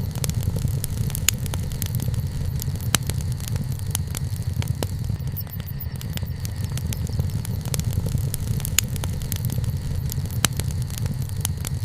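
Wood fire crackling, with sharp pops at irregular moments over a steady low rumble.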